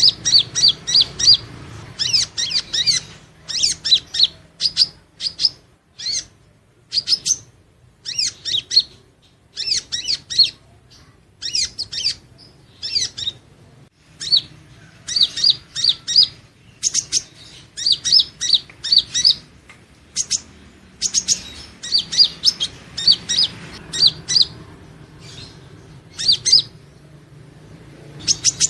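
Purple-throated sunbird (Leptocoma sperata) singing: quick bursts of high, thin chirping notes, each burst lasting about a second, with short pauses between them.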